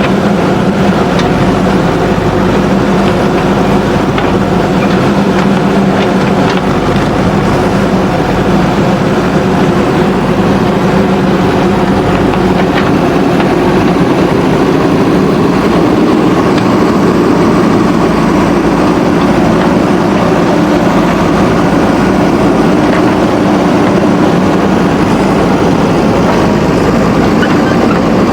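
Backhoe loader's diesel engine running steadily, with its note shifting slightly about halfway through and a few faint clicks in the first few seconds.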